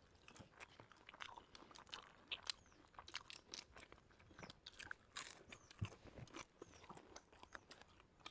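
Faint crunching and chewing of crisp fried papad, heard as scattered irregular crackles and small clicks of bites.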